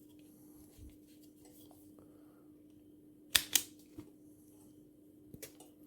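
Wire cutters snipping electrical wire: two sharp snips close together about halfway through, then single fainter clicks, over a faint steady hum.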